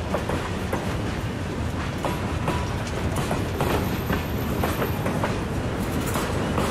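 Freight train boxcars rolling past, with a steady rumble and the irregular clicking and clacking of steel wheels over the rail joints.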